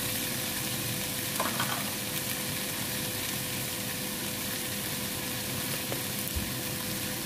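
Eggplant, onion and cherry tomatoes sizzling steadily in olive oil in a nonstick pan.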